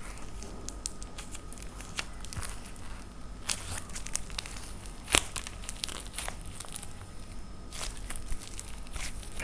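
Dried plaster clay being cracked and crushed: a continual run of sharp crackles and crunches, with one louder snap about five seconds in.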